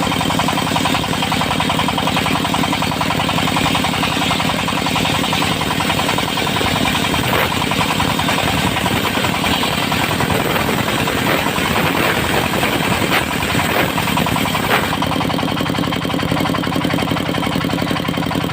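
Engine of a portable circular sawmill running steadily with an even pulse, with a few sharp knocks in the middle stretch.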